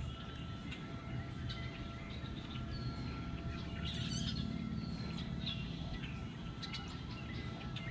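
Birds chirping now and then, short scattered calls, over a low steady rumble and a faint steady hum.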